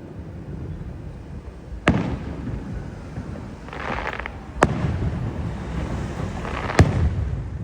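Fireworks display: aerial shells bursting with three sharp bangs about two to three seconds apart, each trailed by a low rumbling echo.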